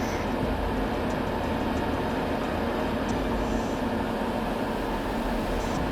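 A heavy vehicle's engine running steadily under a constant wash of noise.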